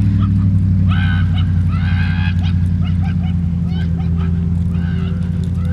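Ram pickup truck's engine running steadily under load as it tows a man on a rope through deep snow, with a series of short honk-like squeals over it, two longer ones about one and two seconds in and shorter ones after.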